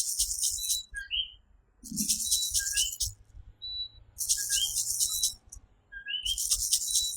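Coquí tree frogs calling, repeating their short two-note "co-quí", a lower note followed by a higher rising one, over a steady night chorus. Pulses of high-pitched buzzing come in about every two seconds.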